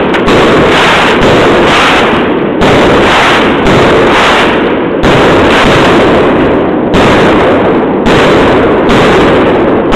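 Fireworks going off in a sustained barrage: loud bangs following one another about every second, with little let-up between them.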